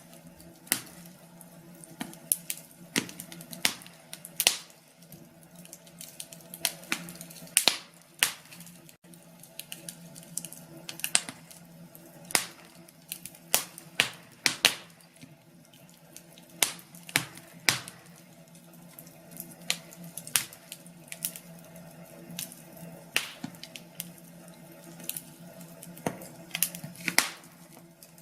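Wood fire in a fireplace crackling, with sharp irregular pops and snaps, a few each second, over a soft steady background.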